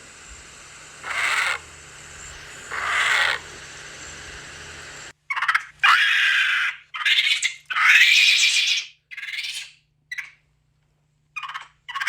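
Animal calls: two spaced calls over a steady background hiss, then, after a cut, a run of about five louder, harsh calls in quick succession and two short ones near the end.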